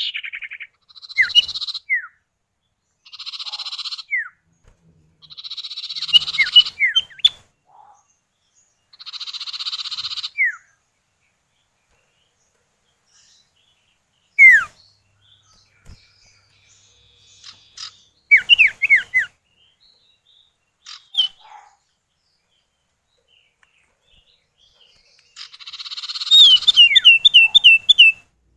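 Common iora (sirtu, cipow) male and female calling back and forth: harsh, buzzy rattling calls about a second long alternate with short falling whistles. Near the end comes a rattle with a quick run of falling notes over it.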